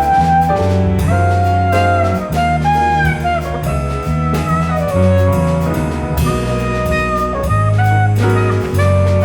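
Live jazz waltz for tenor saxophone, piano, double bass, drums and string quartet: the tenor sax carries held and moving notes over walking bass and drums, with strings in the ensemble.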